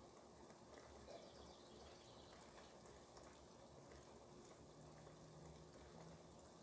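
Near silence with a faint, steady hiss of rain coming in through an open window; a faint low hum comes in about four seconds in.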